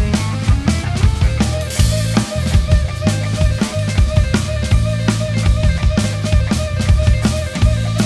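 A rock band playing live, with a driving drum kit (kick and snare hits throughout), heavy bass and a sustained guitar note held over the beat.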